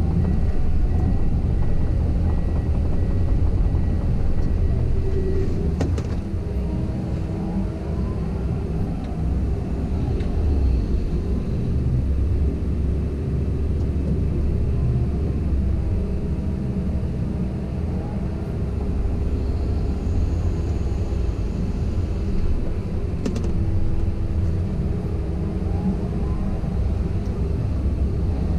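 Komatsu PC170LC-10 excavator running steadily with a low rumble, while a higher whine comes and goes and shifts in pitch as the machine works. Two sharp knocks stand out, about six seconds in and again near twenty-three seconds.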